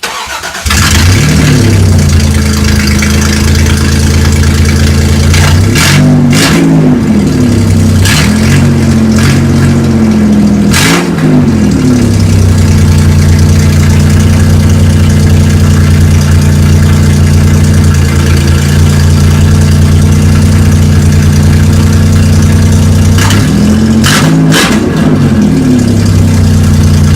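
Vehicle engine with no catalytic converters, muffler or tailpipe starting up: it cranks briefly, catches and runs loud and open, straight-piped. It is revved in quick blips several times about six to eleven seconds in, idles steadily, then is revved again near the end.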